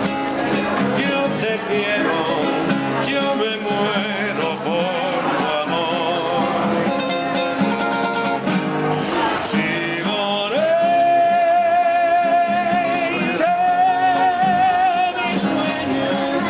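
A Spanish song with guitar accompaniment and a singing voice. About ten seconds in, the voice holds a long wavering note, then another slightly higher one about three seconds later.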